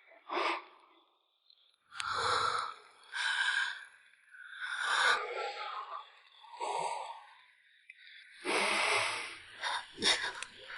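Harsh breathy sounds: about six rough gasping exhalations in a row, each under a second long, with short pauses between them.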